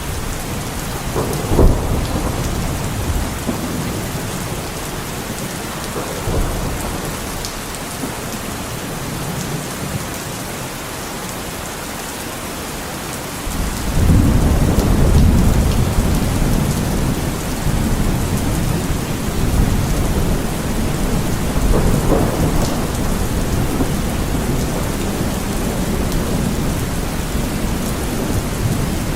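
Heavy rain falling steadily, with thunder: a sharp crack about a second and a half in, then a long low rumble rolling in about halfway through and carrying on.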